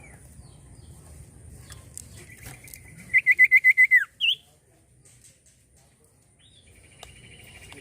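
Common iora (cipoh) singing: a trilled whistle that swells about three seconds in into a run of seven loud, rapid notes, ends in a falling slur and one short high note, and a second, quieter trill starts near the end.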